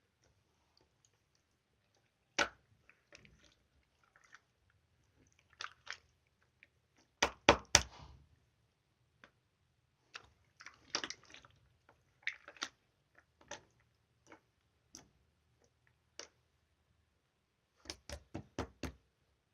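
Clear slime being squeezed and stretched by hand, giving scattered wet clicks, small air-bubble pops and brief squelches, with a quick run of sharp clicks about seven seconds in and another near the end.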